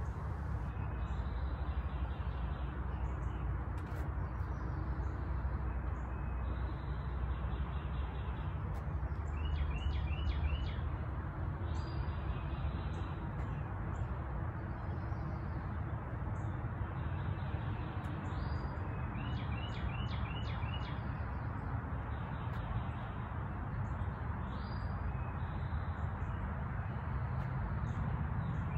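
Songbirds chirping and singing, with short runs of quick repeated high chirps every few seconds, over a steady low background rumble.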